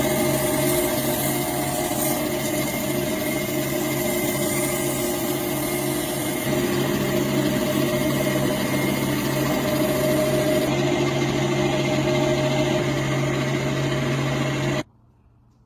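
Electric power tool motor running steadily at speed, then switched off and cutting out suddenly near the end.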